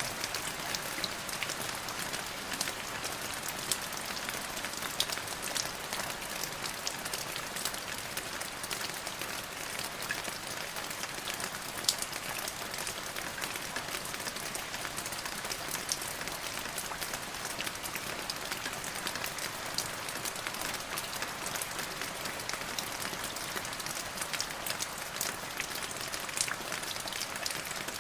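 Steady rain falling on a surface: an even hiss peppered with many close, sharp drop ticks.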